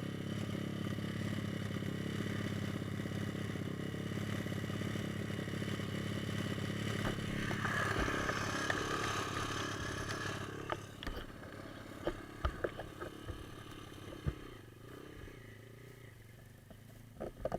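Pit bike's small single-cylinder engine running steadily, then cutting out about ten seconds in, followed by a few scattered knocks and clicks.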